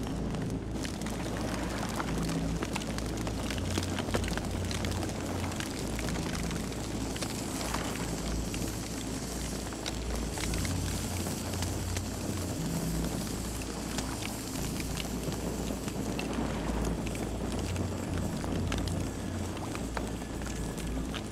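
Campfire burning: a steady hiss and low rumble with frequent sharp crackles and pops of burning wood. A faint steady high tone comes in near the end.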